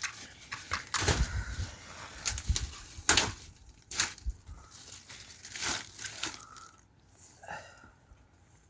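Sticks and brush being handled for firewood: rustling with irregular sharp cracks and snaps that thin out near the end.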